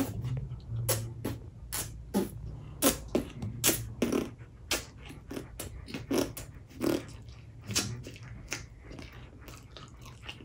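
Close-up chewing and lip-smacking from someone eating a cheeseburger: a string of irregular wet smacks and clicks, several a second, loudest in the middle.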